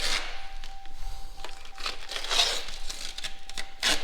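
Vinyl wrap film crinkling and rustling as it is handled, in three or four separate passes.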